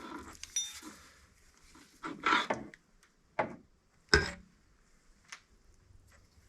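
Handling noise as the camera is picked up and moved: a rustle about two seconds in, a short scrape, then a sharp knock about four seconds in.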